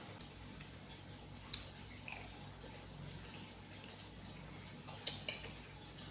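Close-up eating sounds of spicy instant noodles: scattered wet mouth smacks and clicks while chewing, with two louder smacks about five seconds in.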